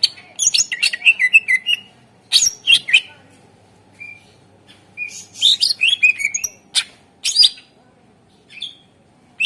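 Cucak ijo (green leafbird) singing: loud phrases of fast chirps and sharp gliding whistled notes, broken by short pauses. This is the lively full song used as a lure to set other birds singing.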